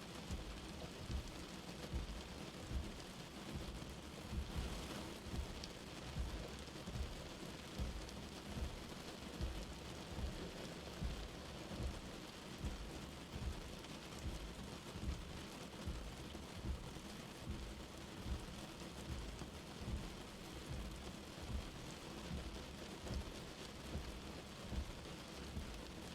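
Light rain falling steadily, with soft low thumps of drops about every second.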